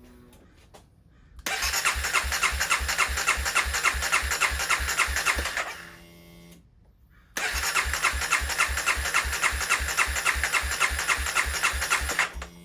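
Honda CBR300R's single-cylinder engine being turned over by its electric starter in two long cranking attempts of about four to five seconds each, with a steady chug of about four compression strokes a second and no sign of the engine firing. There is a brief hum between the attempts. The bike is being started for the first time after sitting for seven years.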